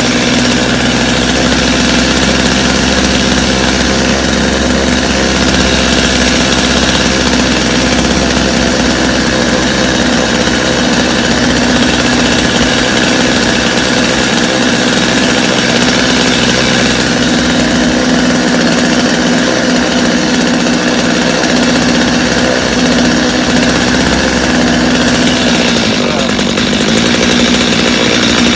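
Stihl two-stroke chainsaw idling steadily at an even pitch, its idle running a little high.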